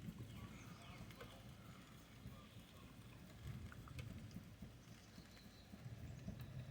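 Faint, low, uneven wind rumble, with a few scattered light ticks.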